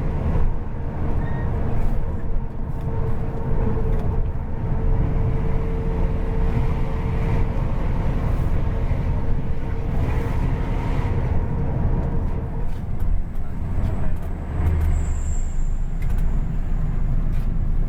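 Intercity coach under way, heard from inside: a steady low engine and road rumble with a thin whine that fades out about two-thirds of the way through.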